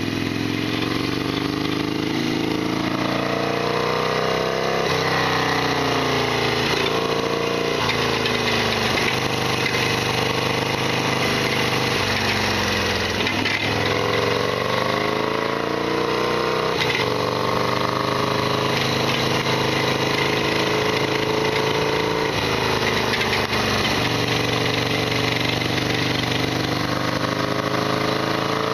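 Harley-Davidson Sportster XL1200R's air-cooled V-twin running on the road. Its pitch climbs and drops again several times with throttle and gear changes, and the engine is as rattly as ever, a loud abnormal noise to its owner.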